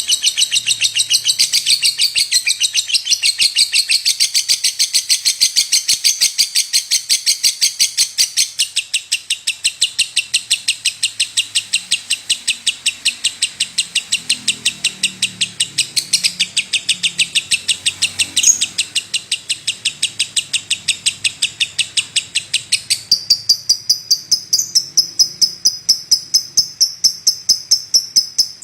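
Lovebird chattering in a long unbroken run of rapid, shrill chirps, about five a second. Near the end the chirps shift higher in pitch and grow louder.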